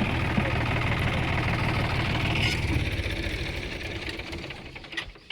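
Diesel tractor engine running as the tractor is driven and turned, growing fainter over the last couple of seconds as it moves away.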